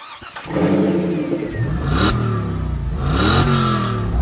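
Pickup's 6.0-litre gas V8 breathing through a Flowmaster American Thunder cat-back exhaust. It catches about half a second in, then is revved twice, each rev rising and dropping back, with a third rev starting near the end. Deep exhaust tone.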